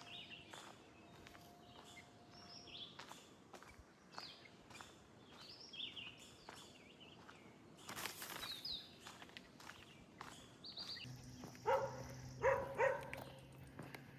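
Footsteps on a trail, about two a second, with small birds chirping. Near the end there are three loud, short pitched calls over a low steady hum.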